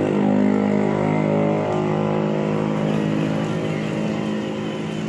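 A steady engine-like drone, slowly fading.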